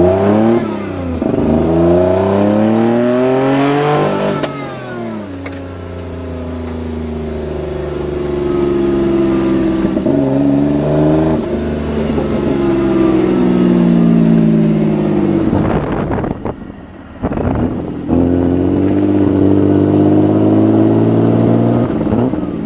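Supercharged BMW M50B20 2.0-litre straight-six accelerating hard through the gears, heard from the cabin: the engine note climbs in pitch, then drops at each change. About sixteen seconds in it lifts off the throttle briefly before pulling again.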